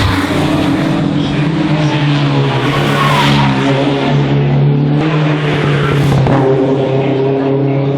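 Racing car engine running hard at high revs, its note shifting pitch a few times as it is driven up the course.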